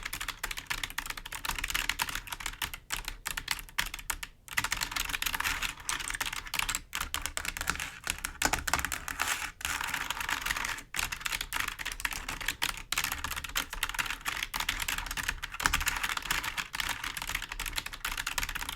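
Fingers tapping and scratching on a clicky computer keyboard: a dense, continuous run of quick key clicks, broken by a couple of brief pauses.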